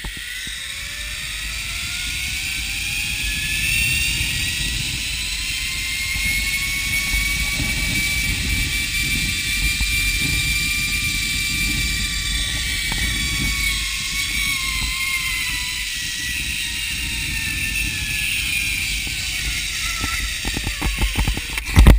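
Zip line trolley pulleys running along the steel cable, over wind rumble on the microphone. Their whine rises in pitch as the rider picks up speed, levels out, then falls as they slow. A loud knock near the end as the trolley reaches the end of the line.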